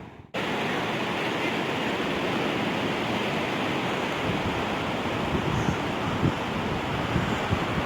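Ocean surf washing steadily, with wind on the microphone. It starts abruptly about a third of a second in, after a brief gap.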